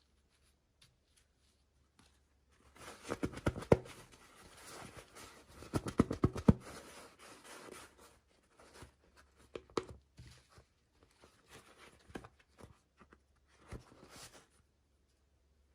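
Packaging being handled and opened by hand: rustling, crinkling and tearing with sharp clicks, busiest in the first half and then sparser taps and rustles.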